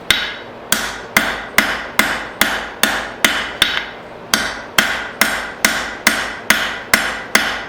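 A hammer strikes hot steel bar on an anvil in a steady rhythm of about two to three blows a second, each blow ringing briefly, with a short pause partway through. The smith is rounding up the square stock of a drawn-out taper.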